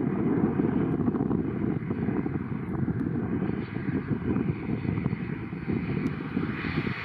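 Aircraft engine noise at an airport: a steady, dense noise with most of its weight low down and no distinct strokes.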